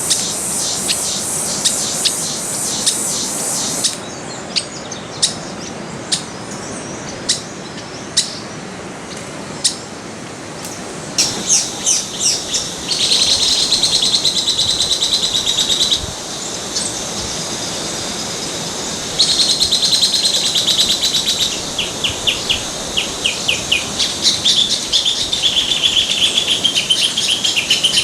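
Wild birds calling: high-pitched short chirps about once a second, then from about eleven seconds in, longer rapid trills that come in stretches of a few seconds each, over a steady background hiss.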